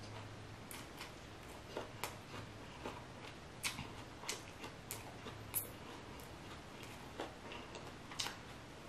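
Faint, irregular wet clicks and smacks of close-miked chewing with the mouth closed, working through a lettuce wrap of steak and noodles.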